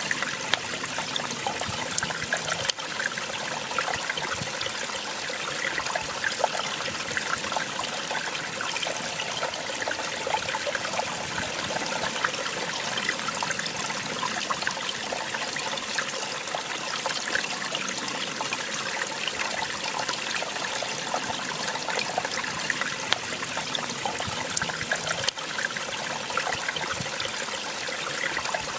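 Small waterfall splashing and trickling steadily over rocks, with many fine splashes.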